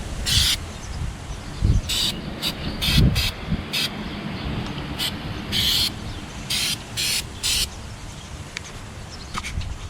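Aerosol can of Flex Seal rubber sealant spraying in about a dozen short hissing bursts, a fraction of a second each, as it is worked along the seams of an aluminum boat. A low rumble runs underneath.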